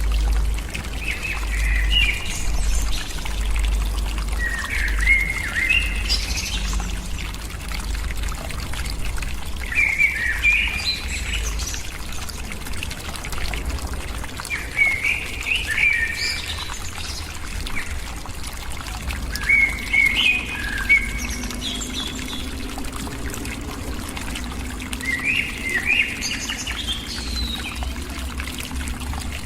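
A bird calling in short chirpy phrases, about six of them, one every four to six seconds, over a steady low rumble.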